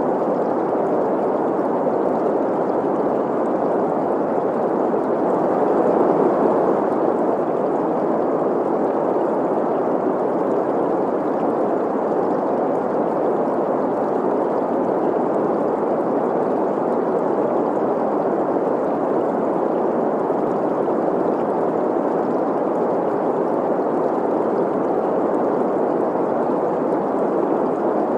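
Steady synthetic green noise, a hiss centred in the middle range, mixed with the sound of a flowing stream. It holds an even level, with a slight swell about six seconds in.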